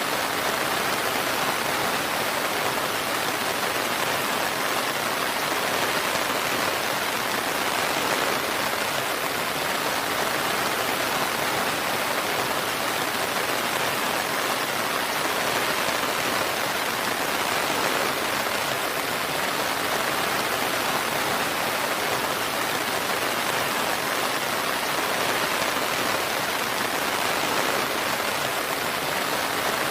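Steady, dense rainfall, an even hiss of many drops without let-up.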